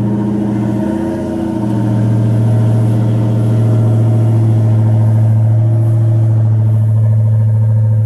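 Supercharged 6.2-litre Hemi V8 of a 2017 Dodge Charger Hellcat idling just after a cold start, at a steady, loud fast idle. The level dips briefly about a second in, then holds steady.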